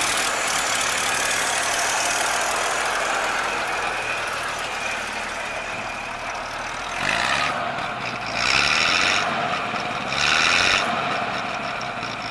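1928 Studebaker Dictator's side-valve six-cylinder engine running, with three short louder bursts about seven, eight and a half and ten seconds in.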